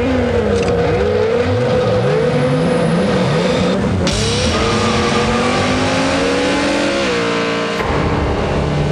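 Several car engines revving hard and accelerating, their pitch climbing and dropping again and again as they go up through the gears, as in a street race. About seven seconds in the pitch levels off to a steady drone.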